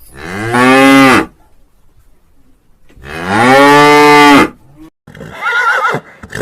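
A cow mooing twice: two long, loud moos a couple of seconds apart, each rising in pitch at the start. Near the end a shorter call with a wavering pitch from another animal begins.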